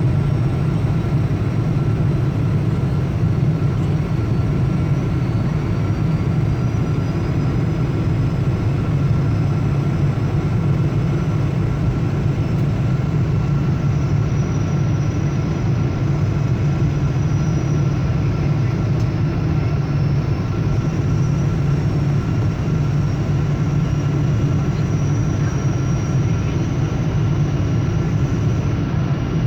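Steady cabin noise inside a Boeing 777-200 airliner on approach: a low rumble of engines and airflow, with a thin steady whine above it.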